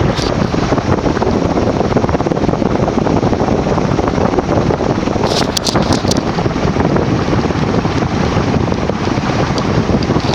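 TAT 'UFO' 56-inch industrial ceiling fan running at speed, its white aluminum blades driving a strong, steady rush of air across the microphone. A few faint ticks come about halfway through.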